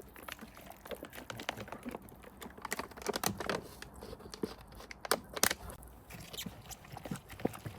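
Rustling and crinkling with many small clicks and knocks as vegetables and their plastic packaging are handled, busiest about three and five seconds in.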